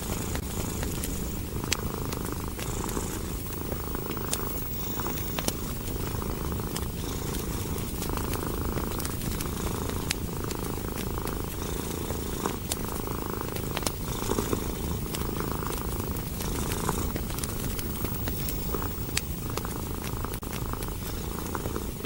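Domestic cat purring steadily, swelling and easing with each breath, with the scattered pops and crackles of a wood fire burning.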